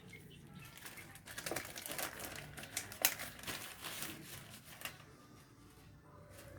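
Scattered light clicks and taps with a little crinkling: the circular saw and its plastic packaging being handled during unboxing.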